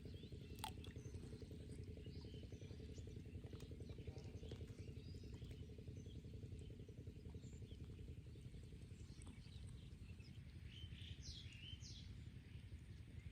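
Faint outdoor ambience: a steady low rumble with a single click about half a second in, and a few short bird chirps near the end.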